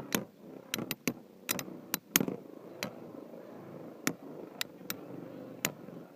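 Spinning Beyblade tops clashing in a plastic stadium: irregular sharp clicks about a dozen times, over a faint steady whir.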